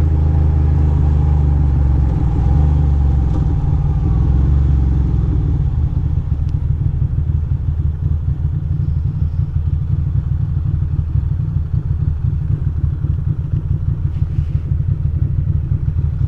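2006 Ducati Monster 620's air-cooled L-twin engine running while the bike is ridden. It holds a steady drone for about the first five seconds, then turns into a choppier, uneven low rumble.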